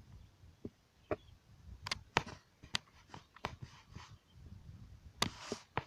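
Scattered small clicks and knocks with a couple of brief rustles.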